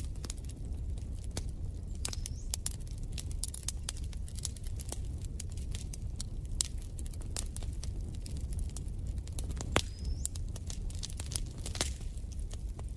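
Wood fire crackling in a fireplace: irregular sharp pops and snaps over a steady low rumble of the flames, with a brief hiss twice, the loudest pop about ten seconds in.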